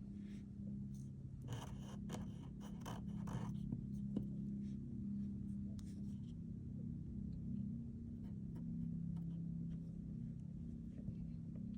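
Pen or marker strokes scratching on paper, busiest in the first few seconds, over low sustained tones.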